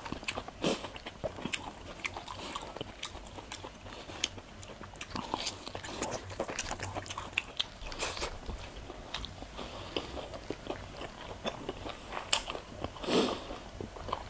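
Close-up crunching and chewing of crispy deep-fried pork mesentery (chicharon bulaklak) with rice, eaten by hand: many short crackles and wet mouth clicks at irregular intervals.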